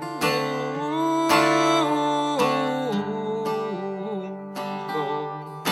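Acoustic guitar strummed in a folk song's accompaniment between sung lines, with a few strong strokes a second or so apart and chords ringing on between them.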